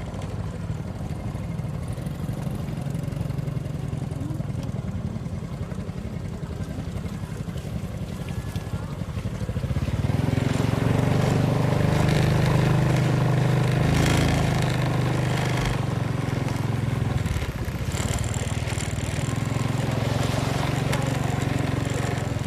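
Motorcycle engine running while riding, steady, growing louder about halfway through and easing off a little near the end.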